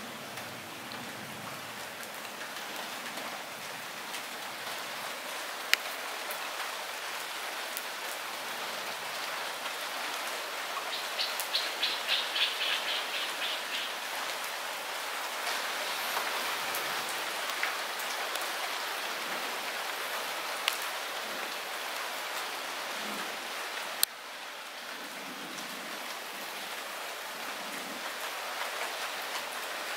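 Light rain falling steadily, with a few sharp, louder single drops and a short burst of rapid ticking about eleven seconds in.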